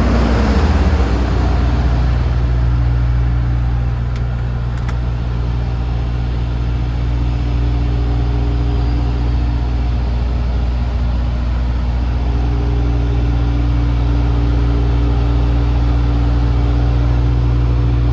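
A diesel engine on a DAF CF250 refrigerated truck idling steadily, with a brief shift in engine note in the first second and two faint clicks about four to five seconds in.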